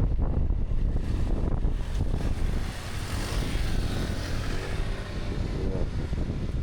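Wind rumbling over the action camera's microphone on a moving Honda Forza 250 scooter, with vehicle and traffic sound underneath. A hissing swell rises and fades about three to four seconds in.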